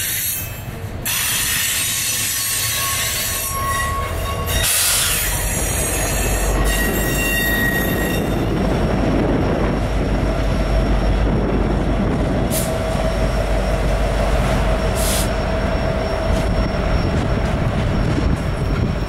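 Freight train passing close by: the wheels of the double-stack container cars squeal high-pitched for the first several seconds, then Union Pacific diesel locomotives go past with a deep, loud engine rumble and a steady hum.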